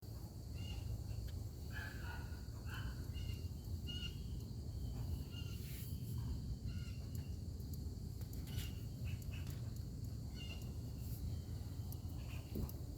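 Irregular rattling and buzzing from a 2023 Toyota Camry SE's passenger door: short high clicks and chirps come at uneven intervals over a steady low road rumble inside the cabin.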